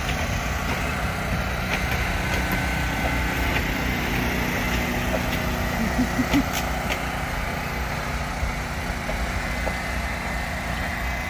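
Passenger train coaches rolling past on the track: a steady rumble of wheels on rail, with a few sharp clicks about halfway through.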